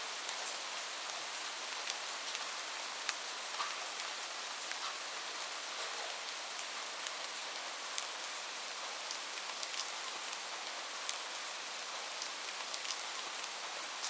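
Steady rain falling on a roof: an even hiss with many scattered sharp drop ticks and no thunder.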